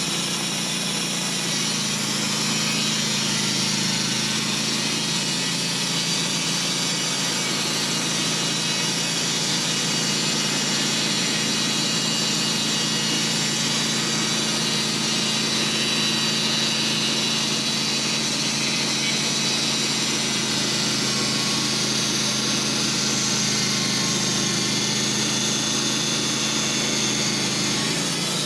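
Sawmill running steadily, its engine drone under a constant hissing of the blade sawing through a hemlock log.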